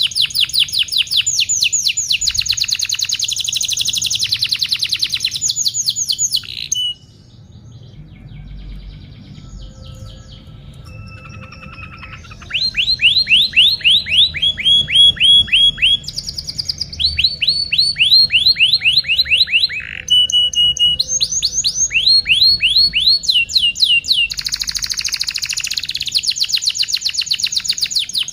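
Domestic canary singing a long song of fast trills and runs of repeated down-sweeping notes. About seven seconds in it drops to a quieter passage of soft notes, then resumes with loud runs and a fast trill near the end.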